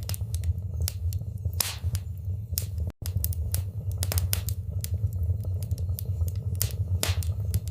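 Wood fire crackling in a fireplace: irregular sharp pops and snaps over a steady low rumble of the flames. The sound drops out completely for an instant about three seconds in.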